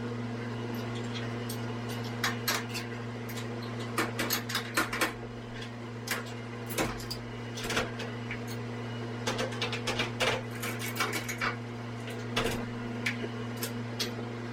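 Scattered knocks, clicks and clanks from handling a heavy wood blank and its lift while positioning it at a lathe, over a steady hum.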